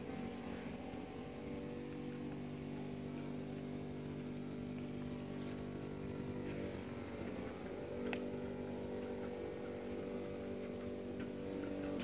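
Yamaha Exciter 150's single-cylinder four-stroke engine idling steadily, heard close to its exhaust.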